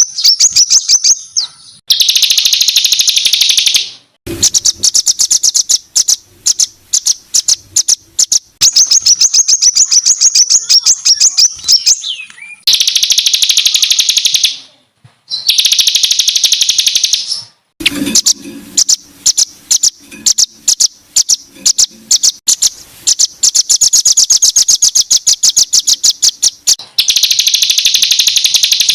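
Songbird singing loud, harsh, high-pitched rapid-fire phrases: fast rattling trains of notes in bursts of one to two seconds, separated by short pauses.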